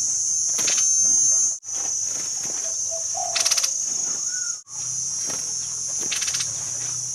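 Insects droning with a steady high-pitched buzz, and short rattling trills about three times, roughly three seconds apart. A few faint whistled notes sound near the middle, and the sound drops out briefly twice.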